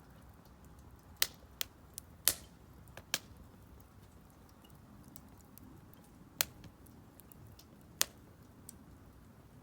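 Split firewood burning in a Solo Stove Campfire stove, crackling over a low hiss, with irregular sharp pops: a cluster in the first three seconds and two more later on.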